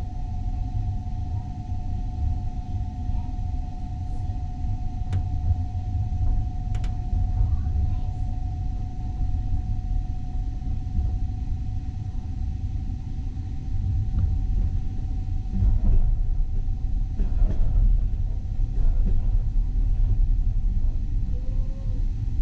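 Steady low rumble of a passenger train running on the rails, heard from inside the carriage, with a thin steady whine over it and a few faint clicks. The rumble grows louder about two-thirds of the way through.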